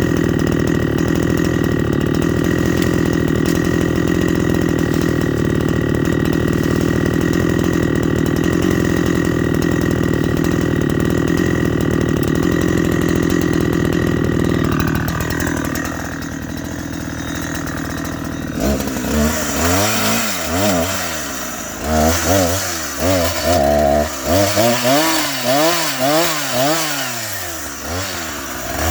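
An engine runs steadily, then its pitch falls and the level drops about halfway through. From about two-thirds of the way in, a two-stroke chainsaw is revved up and down again and again, as when cutting wood.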